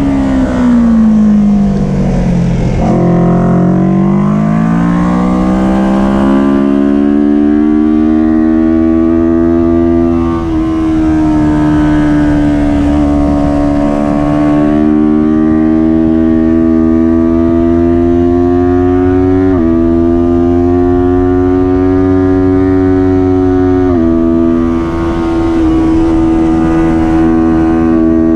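Kawasaki Ninja 400 parallel-twin engine running hard at racing revs. Its pitch drops over the first three seconds as it slows for a corner, climbs again, then holds high. It shifts in small steps about ten, twenty and twenty-four seconds in, which are gear changes.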